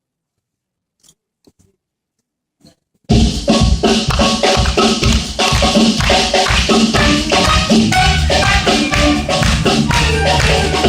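Near silence with a few faint clicks, then about three seconds in a live band starts a Macedonian folk song all at once, loud, with drums and hand percussion over the melody.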